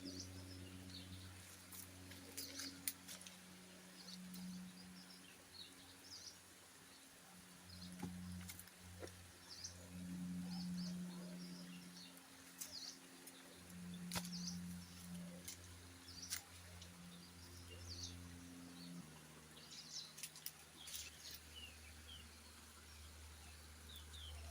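Quiet outdoor ambience: faint, scattered bird chirps and a few sharp clicks over a low, steady hum.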